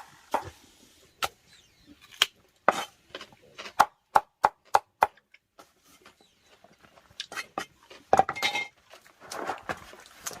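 A series of sharp knocks and clicks, with a quick even run of about four a second near the middle, then a rustling, scraping stretch near the end.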